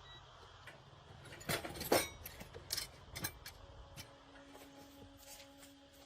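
Scattered sharp metallic clicks and clinks, about six in the first three and a half seconds, the loudest about two seconds in, from work on the motorcycle, followed by a faint steady hum.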